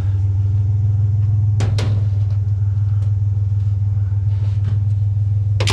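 A vehicle engine idling with a steady low hum. A couple of sharp knocks come about one and a half seconds in, and a louder clatter starts just at the end, as an old steel table frame is handled.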